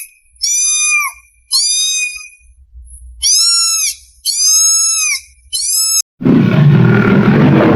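Animal calls: a run of short, high-pitched, arching calls, then an abrupt change about six seconds in to a loud, rough, roar-like call that carries on.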